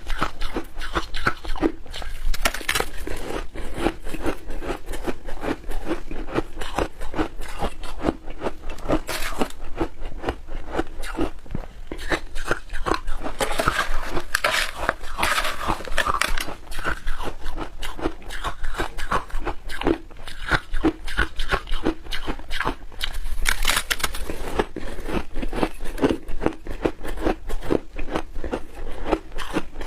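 Milk-powder shaved ice being bitten and chewed, with many rapid, irregular crunches throughout.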